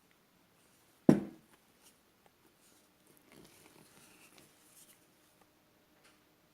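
A single sharp knock about a second in, then soft scraping as a spatula works macaron batter against the side of a mixing bowl.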